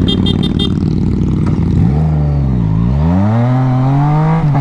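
Motorcycle engine running under way. It opens with a quick run of about five short, high beeps from the bike's horn being tapped. About two seconds in, the engine's pitch drops and then climbs steadily as the bike accelerates.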